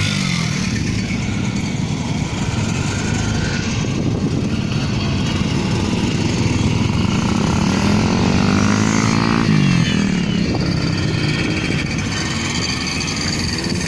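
50cc moped engines running on the road, with an engine's pitch rising and then falling again about eight to ten seconds in.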